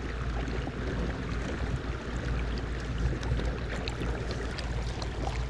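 Steady rushing of moving river water around a small fishing boat, with a low rumble and a few faint clicks.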